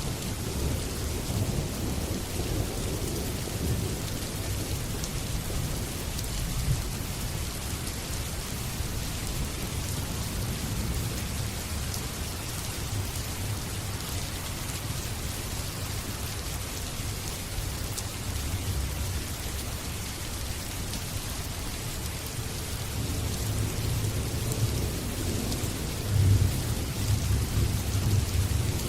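Steady heavy rain with the low rumble of thunder, which swells towards the end.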